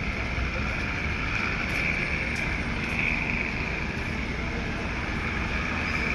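Low rumble of an approaching diesel train, with a steady high-pitched hiss above it; the sound grows slightly louder.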